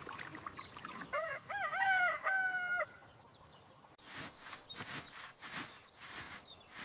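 A rooster crowing once, a call of about two seconds in three linked parts, starting about a second in. Soft scratchy rustling strokes follow in the second half.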